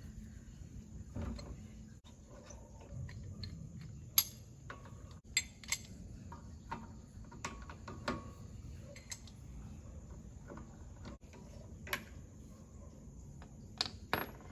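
Metal hand tools being worked at a car's wheel: scattered, irregular metallic clicks and ticks, with a few sharper clinks spread through.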